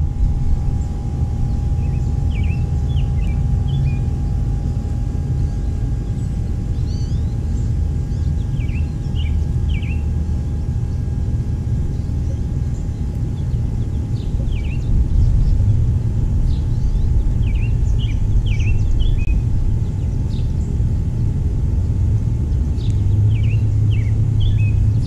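Steady low outdoor rumble, with short bursts of small songbird chirps every few seconds.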